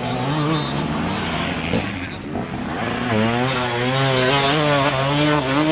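Motocross bike engines racing, their pitch rising and falling as the riders work the throttle; a louder bike comes in about three seconds in, its engine note swinging up and down quickly.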